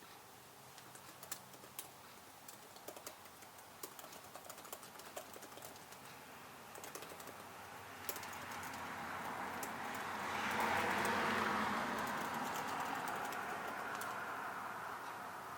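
Computer keyboard typing: irregular light key clicks. About halfway through, a broad rush of noise swells up, peaks as the loudest sound, then slowly fades.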